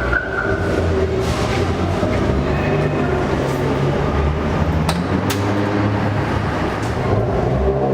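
Car engines running nearby, a loud low rumble that shifts in pitch, with two sharp clicks about five seconds in.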